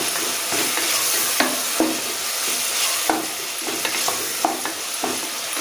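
Onions, tomatoes and green chillies sizzling in oil in a pressure cooker pot under a steady hiss. A wooden spatula stirs the mixture and scrapes against the metal in short, irregular strokes.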